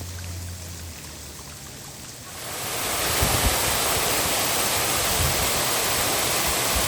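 Waterfall water rushing, a steady hiss of falling water that grows much louder about two seconds in.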